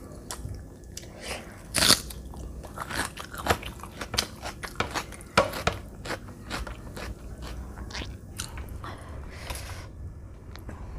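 Close-miked chewing with crunchy bites and wet mouth clicks, along with fingers working rice and curry on a plate. The loudest crunches come about two seconds in and again about five seconds in.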